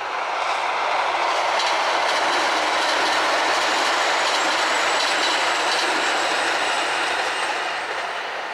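JR Hokkaido H100 "DECMO" diesel railcar passing the crossing, its wheels clattering over the rail joints. The sound swells, holds loudest through the middle, then fades.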